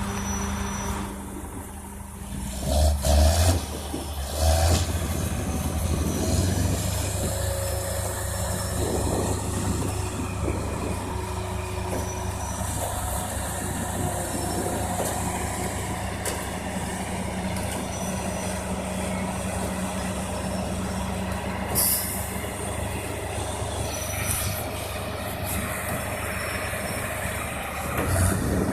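Tractor engine running steadily, with louder surges about three and four and a half seconds in and again near the end.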